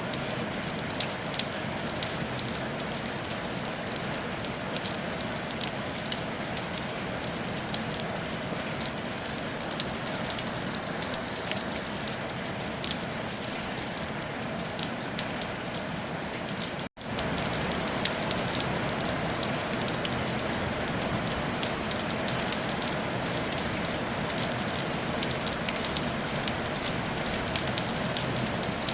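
Steady rain falling on a tile roof, an even hiss dotted with many small drop ticks. It cuts out for an instant about seventeen seconds in, then carries on unchanged.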